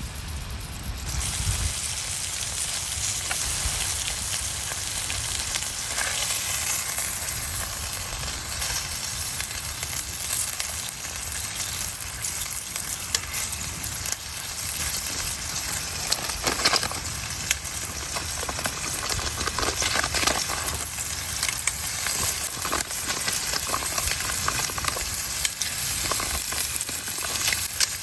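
Food frying in hot oil in a pan over a campfire: a steady sizzle with scattered sharp pops and crackles.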